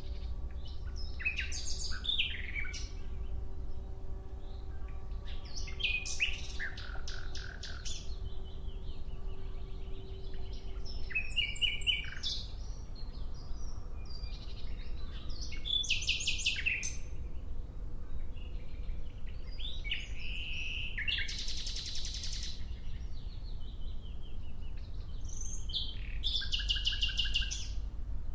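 Nightingale singing: six short phrases of fast repeated notes and trills, one every four to five seconds, with pauses between, over a steady low rumble.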